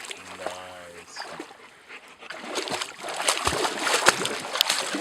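German Shepherds splashing through a shallow stream, with water splashing and slapping in quick irregular bursts that grow louder in the second half.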